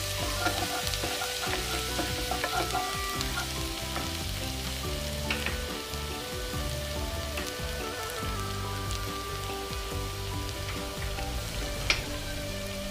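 Chopped garlic and ginger sizzling in hot oil in a nonstick kadai, a steady frying hiss as it is lightly sautéed, with a wooden spatula stirring and a couple of sharp taps.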